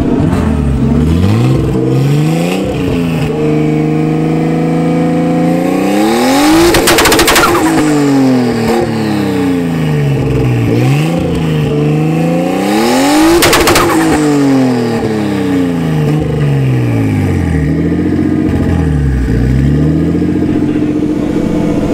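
Nissan Laurel's engine revving up and down several times. On two of the revs it holds at the top with a rapid crackle of pops, the two-step rev limiter cutting in.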